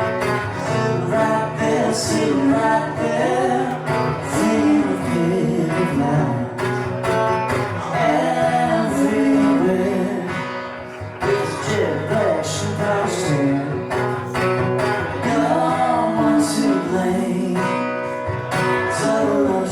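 Live music: guitar playing an instrumental passage of a song, with a lead line bending up and down over the accompaniment.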